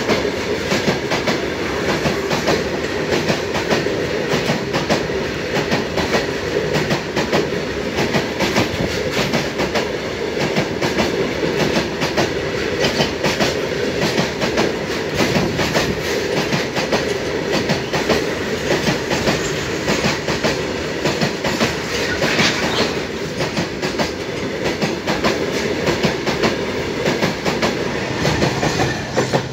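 Long freight train of covered goods wagons rolling past at close range, its wheels clattering over the rail joints in a loud, dense, steady clickety-clack. Near the end the guard's brake van passes and the sound falls away sharply.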